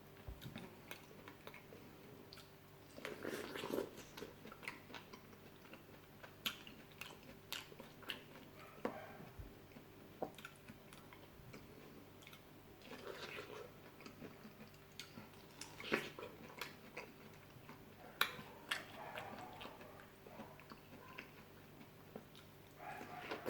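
Close-up eating sounds of fresh fruit being bitten and chewed: irregular wet smacks and soft crunches, with a louder round of chewing a few seconds in and again near the end.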